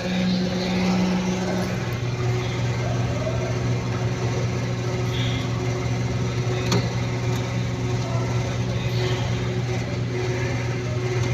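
Motor running steadily with a constant hum over a broad hiss; a second, higher hum drops out about two seconds in.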